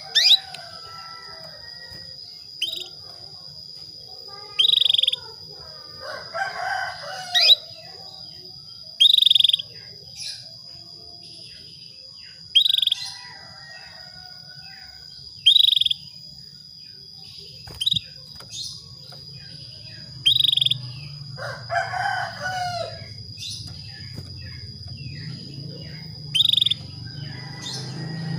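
Female canary calling: short, bright call notes repeated every two to three seconds, the call used to draw a male into singing. A steady high whine runs underneath, and twice a longer, lower call sounds.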